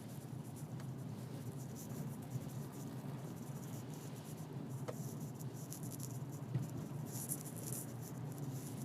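Steady low rumble of a car interior on the move, with a faint scratchy patter high above it, like rain on the car, and a brief faint sliding squeak about five seconds in.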